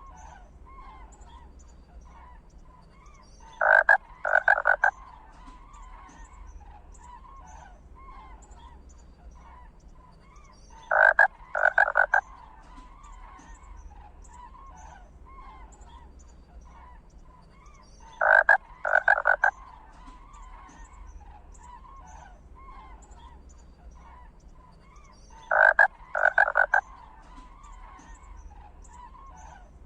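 A chorus of calling frogs. Over it, a loud call of three quick pulses comes four times, about every seven seconds, exactly alike each time, as in a looped recording.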